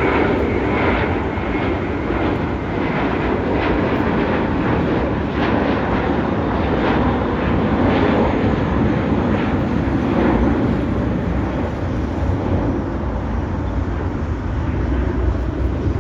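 Jet airliner's engines, a loud steady rumble that holds throughout.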